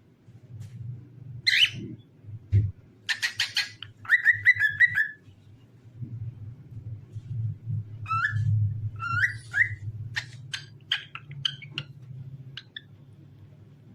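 Cockatiel chirping and whistling in short phrases: a chirp about a second and a half in, a quick run of repeated notes from about three to five seconds, then more calls and short clicky notes from about eight seconds on. A low steady hum runs underneath.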